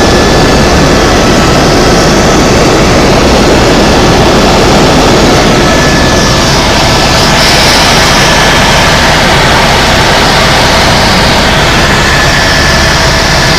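Tour helicopter's turbine engine and rotor running steadily and loud, with a thin high whine over a deep rumble.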